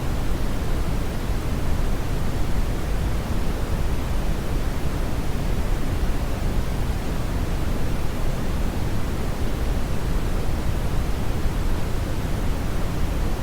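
Steady brown noise, a continuous deep rumbling hiss with most of its weight in the bass, unchanging throughout.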